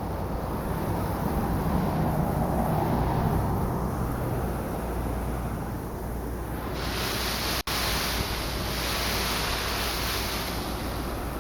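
Wind buffeting a phone microphone outdoors, a steady rumbling noise. About two-thirds of the way in, a brighter hiss joins it, broken by a momentary dropout.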